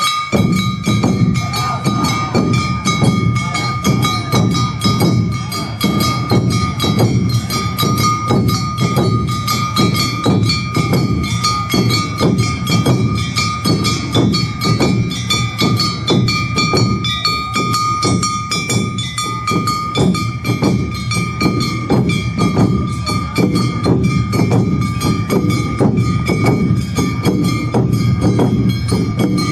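Awa Odori narimono band playing: taiko drums and clanging kane gongs beat a rapid, steady rhythm, with a held high note running over the beat.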